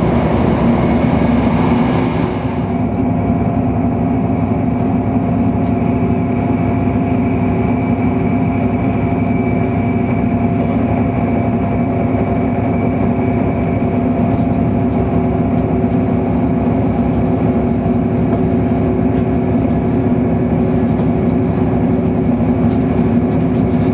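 Passenger train running at speed, heard from inside the carriage: a steady rumble with a few held hums. A rushing hiss eases about two seconds in.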